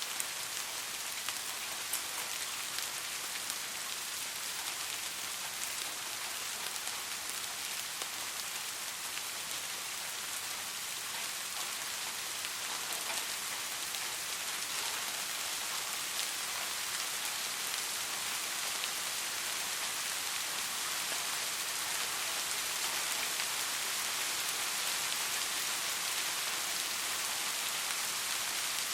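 Soft, steady rain falling on a surface, an even hiss with scattered drop patters.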